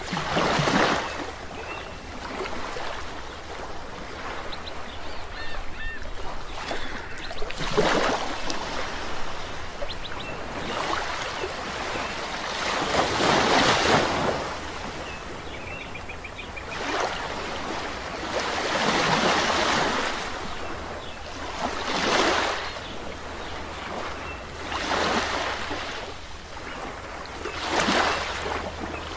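Sea waves breaking and washing on a beach, rising into a loud surge every few seconds, with faint bird chirps between the surges.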